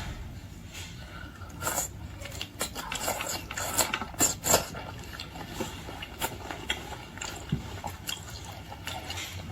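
Wasabi and soy dipping sauce being mixed and poured: scattered clicks and taps with wet liquid sounds, loudest a few seconds in.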